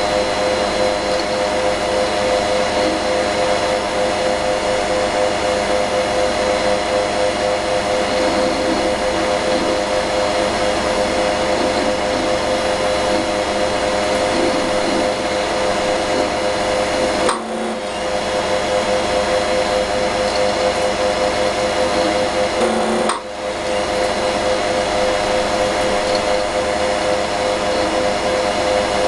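Steady mechanical whir of a running computer with a failing hard disk, a hum with a few steady tones in it. The sound briefly drops out twice in the later part.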